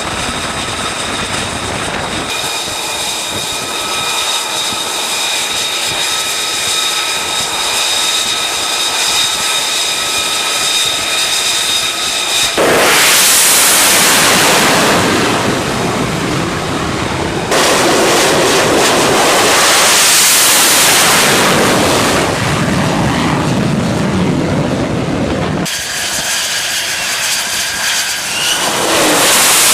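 F-35 jet engines in several cuts: first a steady high turbine whine, then the loud roar of a jet running hard or passing close, in two long stretches. A quieter whine follows, and near the end another rising roar.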